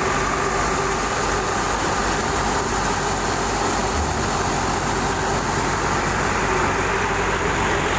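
Swaraj 744 FE diesel tractor engine running steadily at working speed while it drives a thresher, holding the load without strain.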